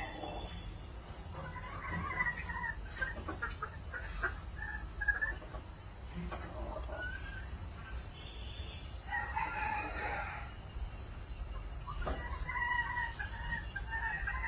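Chickens calling, with a rooster crowing about three times, each call lasting a second or two, over a steady high-pitched tone.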